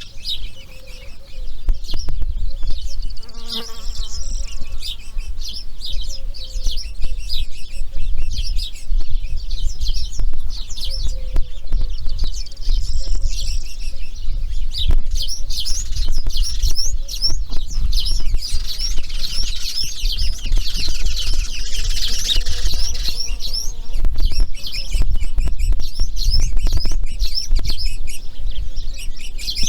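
Many birds chirping and calling in a dense, continuous chorus of short high notes, over a steady low rumble.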